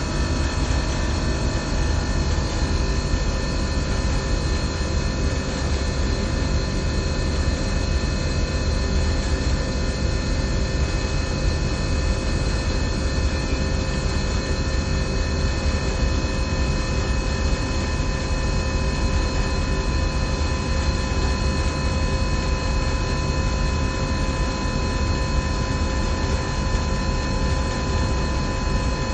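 SystemAir chiller and fan-coil HVAC equipment running steadily: a constant low hum and even noise with several steady whining tones over it.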